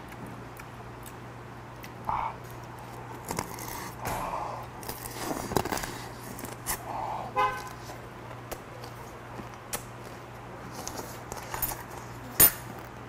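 Close chewing and crunching of a freshwater mitten crab (chamge) in the mouth, with scattered small clicks, over a steady low hum. A brief, honk-like tone sounds about seven and a half seconds in.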